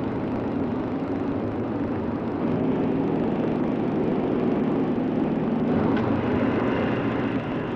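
An Avro Shackleton's four Rolls-Royce Griffon piston engines droning steadily, the sound growing somewhat louder about two and a half seconds in.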